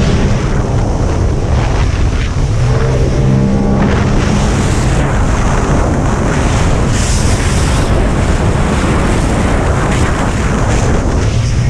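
Racing jet ski (personal watercraft) engine running hard with a steady drone, mixed with rushing water spray and wind buffeting the microphone. The engine's tone stands out at the start, around three to four seconds in and near the end; in between, the rushing spray and wind noise dominate.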